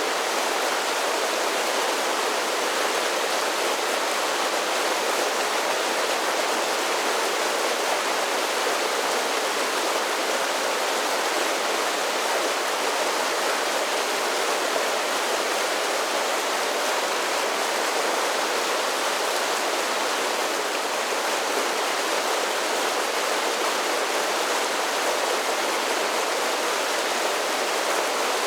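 Mountain creek pouring over a series of small waterfalls: a steady rush of falling and splashing water that does not change.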